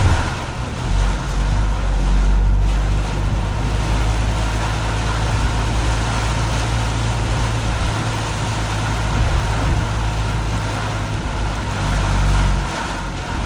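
Car driving on a rain-soaked road in heavy rain: a steady low engine and road rumble under an even hiss of rain and tyre spray.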